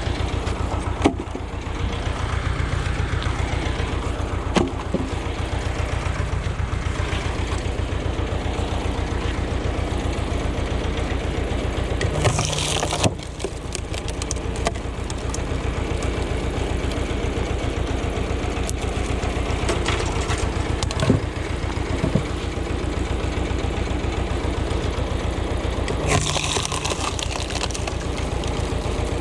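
Ursus tractor engine running steadily, with a few sharp knocks scattered through and two short bursts of hiss, one about halfway and one near the end.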